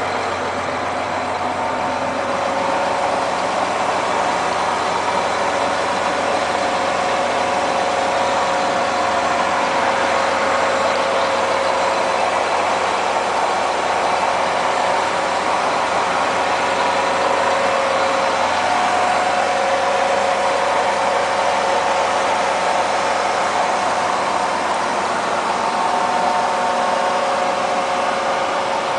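Diesel engine of a 2013 John Deere 8235R tractor idling steadily.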